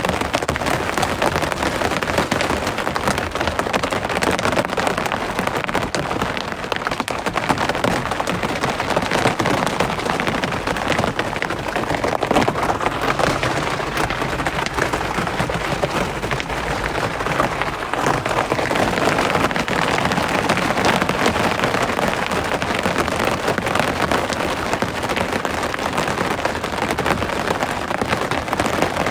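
Steady rain, a dense even patter of many drops.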